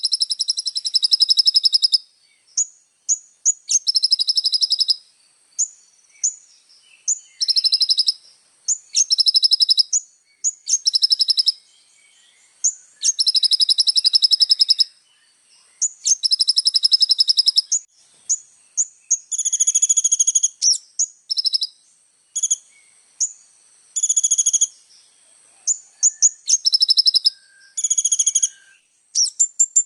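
Kolibri ninja (van Hasselt's sunbird) singing: a full, busy song of high, rapid trills lasting a second or two each, repeated with short gaps and broken up by quick single chirps.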